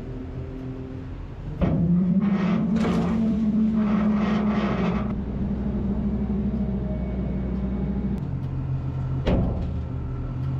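Bergmann C912s tracked dump truck's diesel engine running. About one and a half seconds in it revs up to a higher, steady note under load, with a rushing noise over it for a few seconds. About eight seconds in it drops back to a lower note, and there is a sharp knock shortly after.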